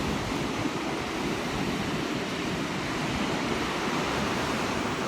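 Storm surf on the sea, a steady rushing of waves, mixed with wind.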